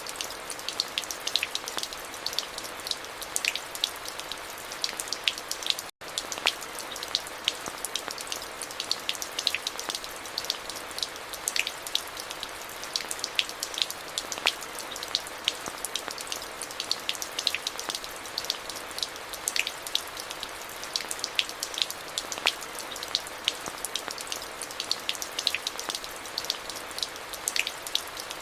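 Steady rain, with a constant hiss and many close, individual drops ticking sharply on a hard surface. It cuts out for an instant about six seconds in, then carries on unchanged.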